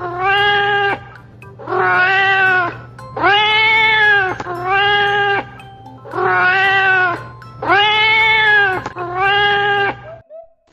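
Domestic cat meowing over and over, about seven drawn-out meows each rising and falling in pitch, with a steady low hum underneath.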